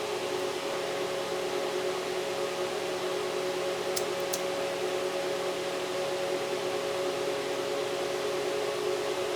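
A steady machine hum: an even hiss with two constant tones, unchanging throughout, with two faint ticks about four seconds in.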